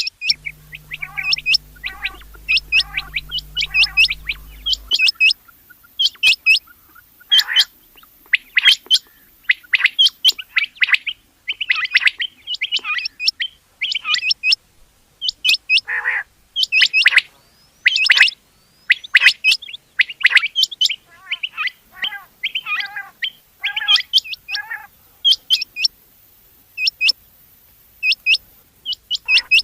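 Rain quail calling over and over: short, sharp, high notes repeated in quick pairs and clusters, with calls coming thick and overlapping throughout.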